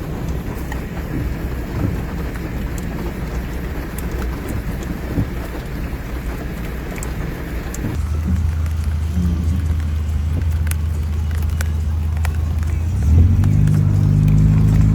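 Broad rushing noise of heavy rain. About eight seconds in it changes suddenly to a steady low engine hum, which gets louder and fuller near the end.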